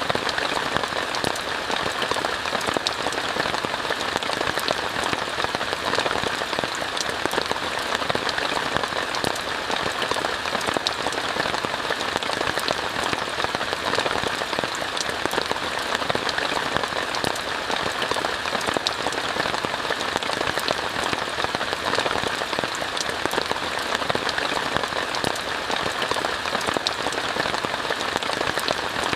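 Steady rain falling on a tent, heard from inside, a dense even hiss full of small drop hits.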